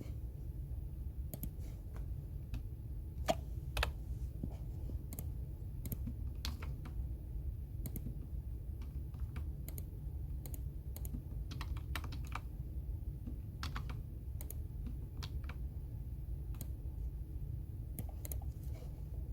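Computer keyboard typing in irregular, scattered keystrokes, a couple of louder taps a few seconds in, over a steady low background hum.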